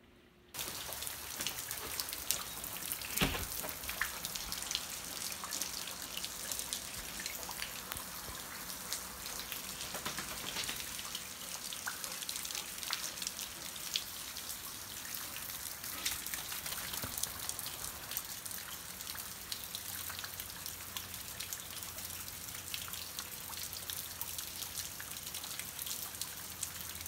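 Steady rain falling, with many close drops dripping and striking as sharp little ticks. It cuts in suddenly about half a second in, and there is a single louder knock about three seconds in.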